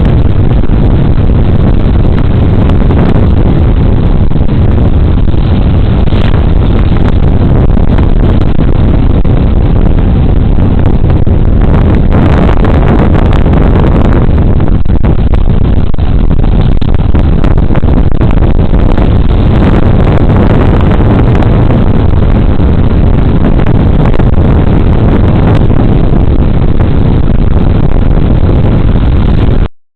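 Loud, steady riding noise on a Suzuki Burgman Street 125 single-cylinder scooter: wind buffeting a body-worn camera's small microphone, with the engine and tyre rumble underneath. The sound drops out for a split second right at the end.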